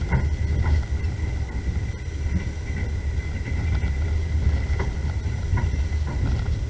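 Passenger train running, heard from on board: a steady low rumble of the wheels and carriage with a few sharp clicks now and then, and a faint steady high whine over it.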